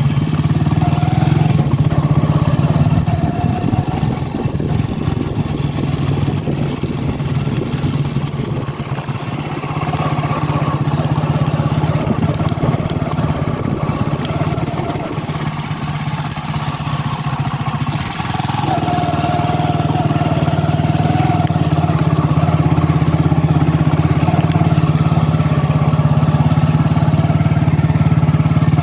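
A vehicle engine running steadily while travelling, with road and wind noise. It eases off briefly about two thirds of the way through, then runs steadily again.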